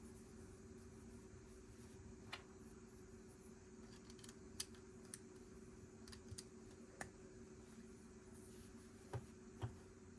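Plastic Lego pieces clicking and tapping as they are handled and pressed together, with about seven short, sharp clicks at uneven intervals, the last two close together near the end. A faint steady hum runs underneath.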